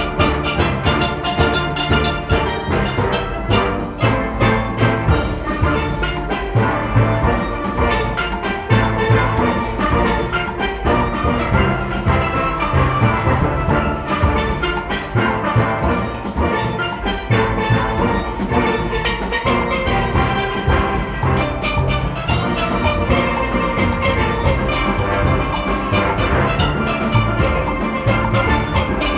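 A steel orchestra playing: many steelpans sounding a fast, dense melody and chords over a driving rhythm section with drums, in a steady beat.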